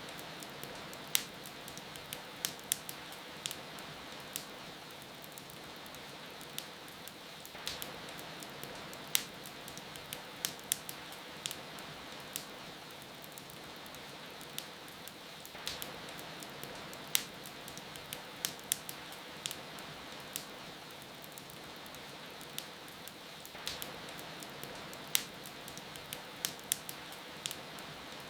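Steady rain hiss with a wood fire crackling over it: irregular sharp pops and snaps, sometimes several in quick succession. The same stretch of crackles repeats about every eight seconds, as a loop.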